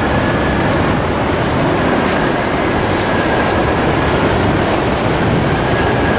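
Ocean surf and wind on the microphone, a steady rushing noise.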